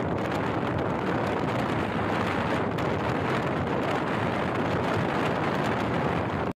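Express passenger train running along the track: a steady rush of rolling and wind noise with no breaks.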